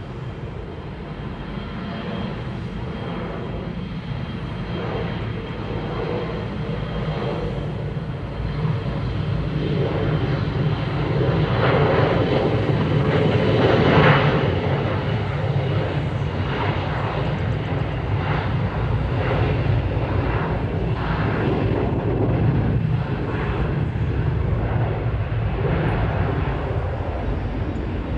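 Jet airliner's engines passing the observer: the noise builds steadily to a peak about halfway through, then slowly fades.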